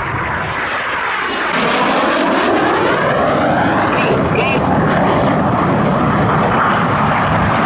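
Red Arrows BAE Hawk T1 jets flying past, the noise of their Adour turbofans swelling over the first second and a half, then holding loud as a rushing roar with a sweeping, phasing quality.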